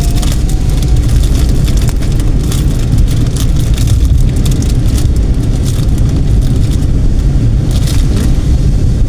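Car driving along a road: a steady low rumble of road and engine noise, with scattered short knocks and rattles.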